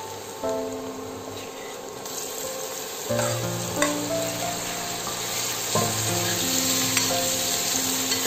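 Onion masala sizzling in a steel pan while a steel spoon stirs and scrapes it, with a few sharp clinks of spoon on pan; the sizzle grows louder about two seconds in as tomato pieces go in. Soft background music plays over it.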